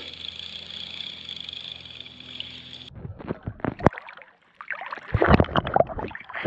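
Steady outdoor hiss, then after an abrupt change about three seconds in, irregular sloshing and splashing of water, as of someone wading through a shallow creek.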